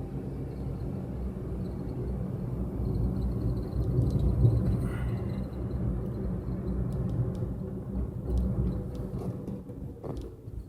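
The car's engine and tyre noise heard from inside the cabin by a dashboard camera while driving: a steady low rumble that swells slightly about halfway through.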